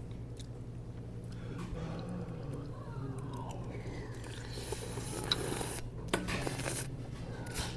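A person chewing food close to the microphone, with a few soft clicks from dishes or cutlery.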